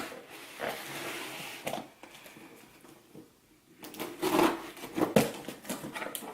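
Rustling and light clicks and knocks of a taped-up shipping box and its packaging being handled. There is a brief lull in the middle, then a busier cluster of handling clicks near the end.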